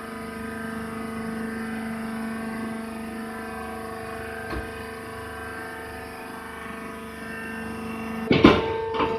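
Hydraulic rice husk baler press running with a steady hum, a light click about halfway, and two loud knocks near the end.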